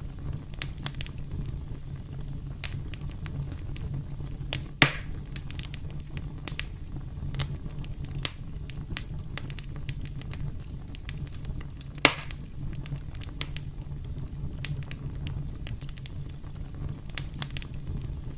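Campfire crackling: a steady low rumble of burning wood with many small snaps, and two loud sharp pops, about five seconds in and again about twelve seconds in.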